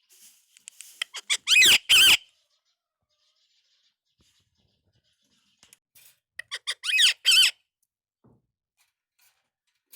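Indian ringneck parakeet vocalizing twice, about five seconds apart: each time a quick run of short, high chirps leads into two loud, longer calls that bend in pitch.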